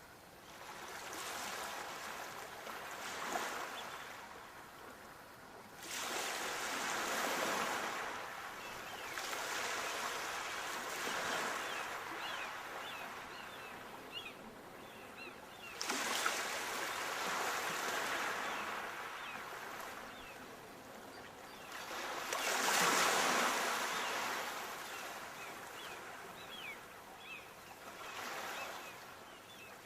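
Sea waves breaking and washing up the shore, a rushing noise that swells and falls back every few seconds. One surge comes in suddenly about halfway through, and the loudest wave breaks about two-thirds of the way in.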